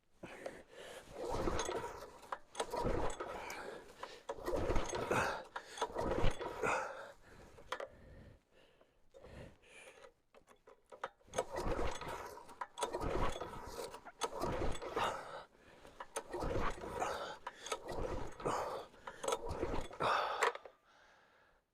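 Small gasoline engine on a log splitter being pull-started over and over, one yank of the recoil cord about every second and a half, in two runs of pulls with a short rest between. It never catches: the engine will not start, and fuel can be smelled afterwards.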